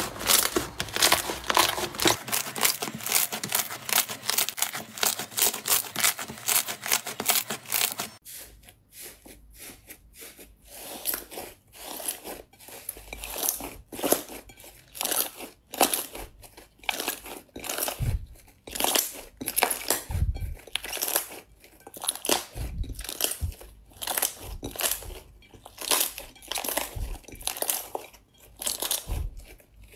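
Crunchy slime being squeezed and pressed, giving rapid, dense crackling. About eight seconds in the sound changes to slower, separate crackles and pops with a few soft low thumps.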